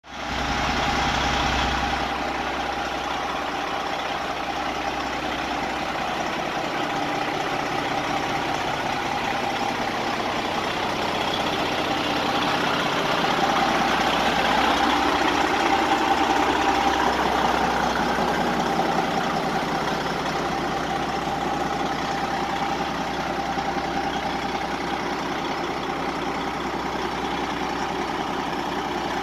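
Detroit Diesel Series 60 14-litre engine of a 2007 Western Star 4900FA semi truck idling, with a steady whine over the engine note. It grows slightly louder for a few seconds midway.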